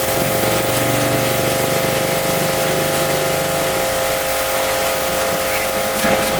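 High-pressure washer running: a steady motor-and-pump whine over the hiss of the water spray, with a lower droning tone that stops about halfway through.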